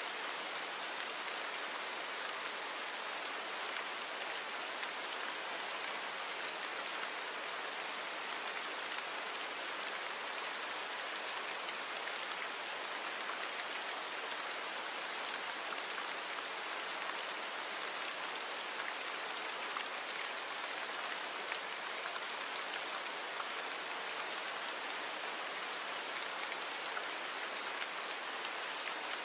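Steady rainfall, an even hiss of drops with fine ticks of individual drops landing on a surface, unchanging throughout.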